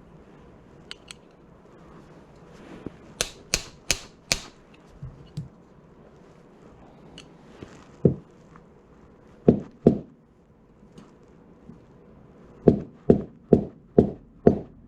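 Sharp knocks in quick runs: four within about a second, a pair later, then five about half a second apart near the end.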